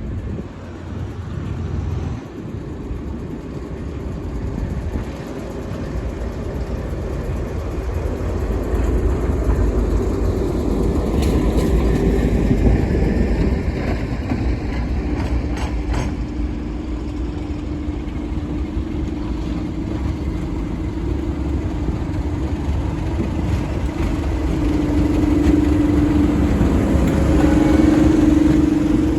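Class 37 diesel-electric locomotive engines working hard under load, a continuous heavy rumble. A steady droning tone joins about halfway through and grows louder near the end.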